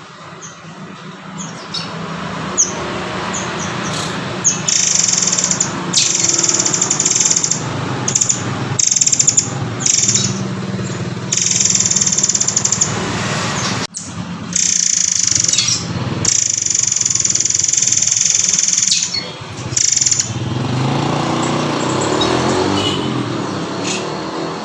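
Recorded song of a murai air (murai kopi) played as training audio for murai batu. It comes as repeated bursts of high, buzzy chattering, each a second or two long, over a steady low hum.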